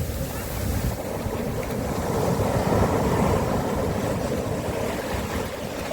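Sea waves washing onto a beach, with wind on the microphone. The surf swells about two seconds in and eases off toward the end.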